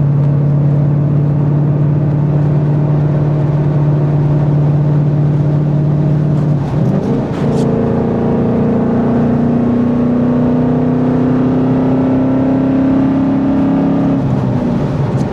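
2014 Mustang GT's Coyote 5.0 V8 exhaust running at a steady engine speed, then about seven seconds in the engine note climbs and holds higher, dropping back again near the end.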